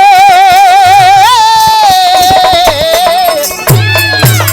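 Bhojpuri birha folk music: a long held note with a wavering pitch over a steady low drum beat. The note ends about three and a half seconds in, and heavier drum strokes follow.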